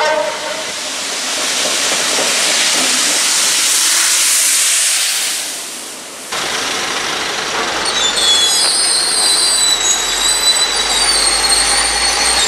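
Rail head treatment train passing close, its high-pressure water jets making a loud steady hiss that cuts off suddenly about six seconds in. Then a locomotive-hauled rail head treatment train running, with a low engine rumble and thin high-pitched wheel squeal from about eight seconds in.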